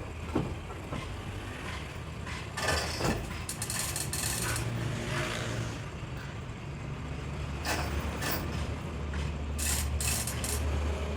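Workshop metalwork: scattered metal clanks and knocks over a steady low engine hum.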